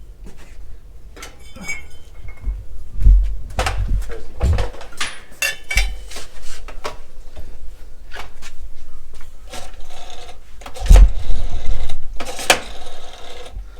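Metal parts and tools being handled on a workbench: a string of clanks, clicks and knocks, with heavier thumps about three, four and a half and eleven seconds in.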